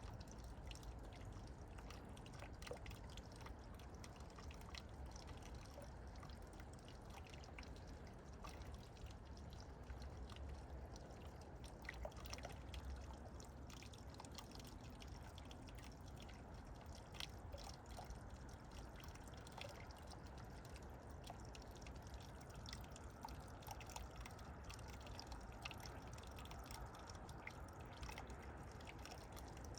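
Faint running water trickling and dripping steadily, with many small scattered ticks.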